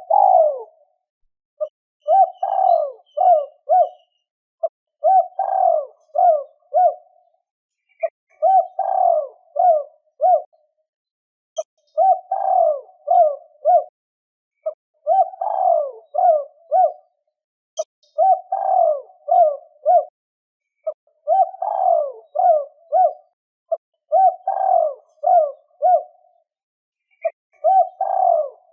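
Spotted dove cooing, repeating the same phrase about every three seconds: a longer opening coo followed by a quick run of short notes.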